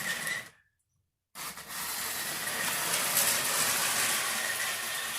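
Battery-powered motor of a vintage Lego 182 train whirring steadily as the train runs on its track, with a faint steady high whine over a hissy running noise. The sound cuts out completely for under a second about half a second in, then comes back.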